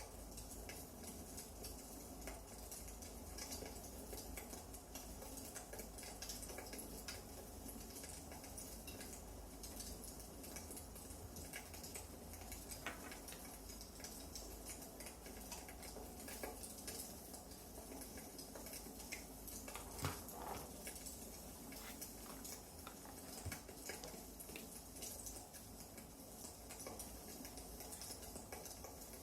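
Firewood burning in a fireplace, crackling: a steady run of small ticks and pops, with one louder pop about twenty seconds in.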